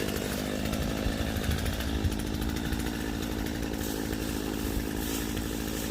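Gas chainsaw engine running steadily.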